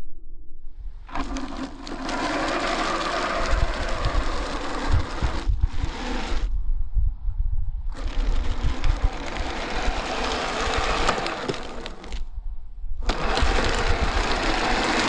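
Kyosho Blizzard RC snowcat's electric motor and drivetrain running in bursts: it starts about a second in, runs for several seconds, and stops and restarts three times. A low rumble runs underneath throughout.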